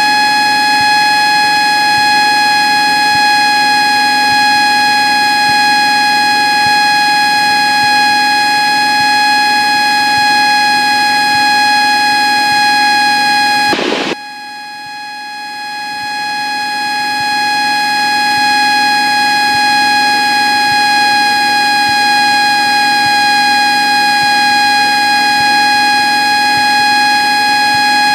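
A loud, steady high-pitched tone with overtones over a low drone, cutting out briefly about fourteen seconds in and then fading back up.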